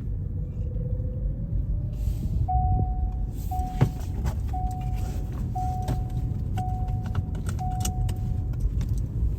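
Road rumble inside a moving car. A faint tone rises slowly over the first two seconds, then six steady beeps sound about a second apart, with scattered sharp clicks.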